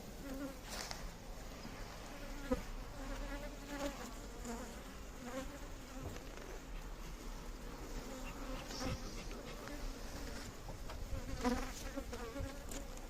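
Honeybee colony buzzing in an opened hive, a steady hum, with a few sharp knocks and clicks, the loudest about two and a half seconds in and again near the end.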